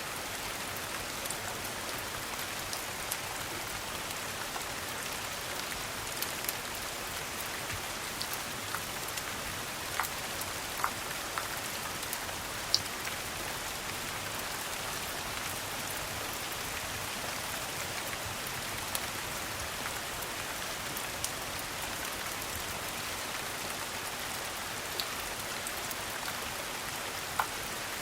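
Steady rain hissing and pattering, with a scattering of sharp single clicks and pops, the loudest about halfway through and another near the end.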